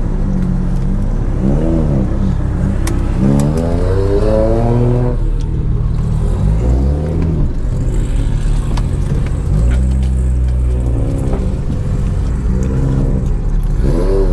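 Turbocharged inline-six car engine revved repeatedly, with short blips and one longer rise about three to five seconds in, each time falling back to a low idle.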